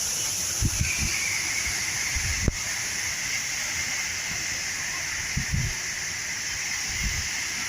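Steady rushing of a large indoor man-made waterfall, the Rain Vortex, heard as an even hiss. A few soft low thumps and one sharp click about two and a half seconds in are mixed in.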